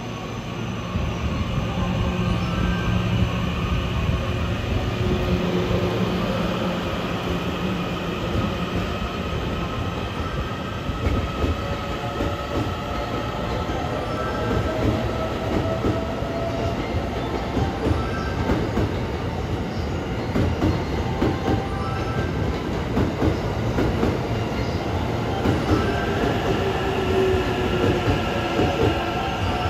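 Cars of the E001 series 'TRAIN SUITE Shiki-shima' rolling past as the train pulls out, a steady rumble of wheels on rail with rapid clicking over the joints and points. Faint high wheel squeals come and go as the cars take the curving track.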